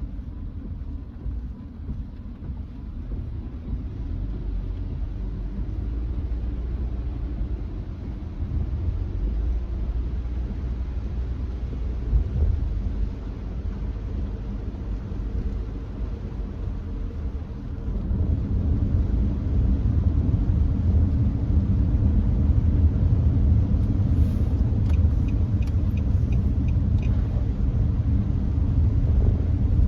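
Nissan Note e-POWER driving on a wet expressway: a steady low road and drivetrain rumble that grows louder about two-thirds of the way through. Near the end there is a short run of faint, evenly spaced ticks.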